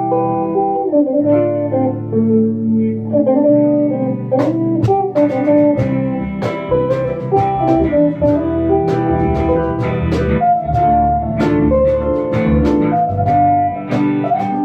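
Guitar playing a song's instrumental intro: held, ringing notes at first, then picked notes with sharp attacks from about four seconds in.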